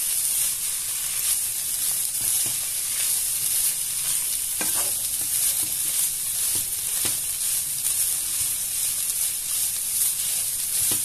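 Shredded chicken and tomato filling sizzling steadily in a nonstick frying pan as it is stirred with a plastic spatula, which knocks briefly against the pan a few times.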